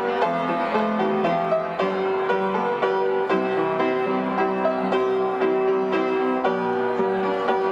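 Piano playing a melody over sustained chords, notes struck in steady succession.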